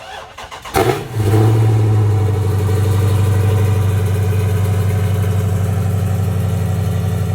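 Car engine cranked by the starter, catching about a second in and settling into a steady idle.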